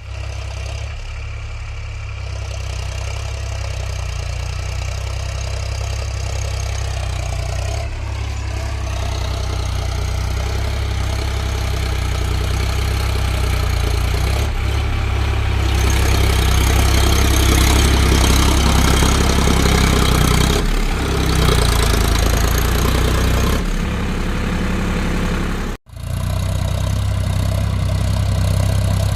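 Tractor diesel engine running steadily while ploughing, with a deep, even drone. Near the end it cuts out for an instant and then comes straight back.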